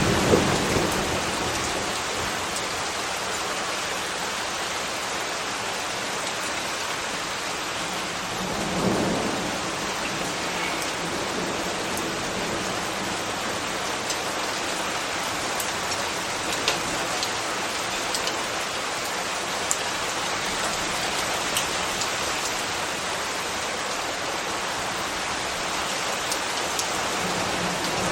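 Steady rain falling, an even hiss with scattered sharp drip ticks. A brief low swell rises and fades about nine seconds in.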